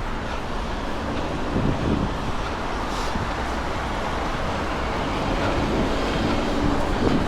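Wind buffeting the microphone mixed with road traffic, with cars passing now and then.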